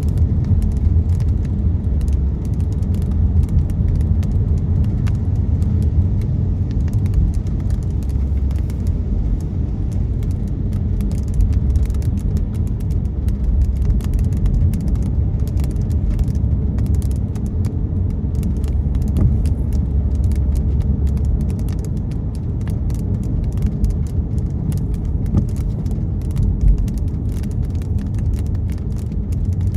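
Inside a car driving in the rain: a steady low rumble of road and tyre noise, with raindrops ticking irregularly on the windshield and roof.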